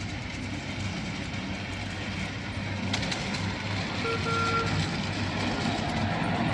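Ride-on miniature railway locomotive running with a steady low hum that grows louder as it approaches. A short, high beep sounds briefly about four seconds in.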